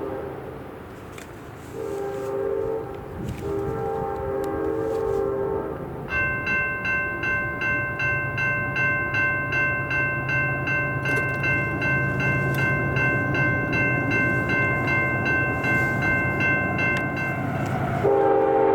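CSX freight locomotive horn sounding three long blasts as the intermodal train approaches, then a bell ringing steadily about twice a second over the low rumble of the diesel locomotive drawing near. The horn sounds again, louder, near the end.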